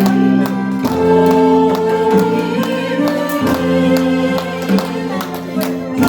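Harmonica ensemble playing a slow tune in unison and harmony, in long held notes that change about once a second.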